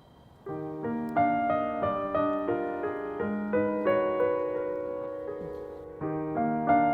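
Gentle background piano music, coming in about half a second in with a melody of single struck notes over held chords.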